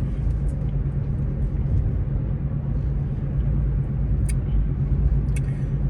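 Steady low rumble of a car's engine and tyres heard from inside the cabin while driving at speed, with a couple of faint light clicks near the end.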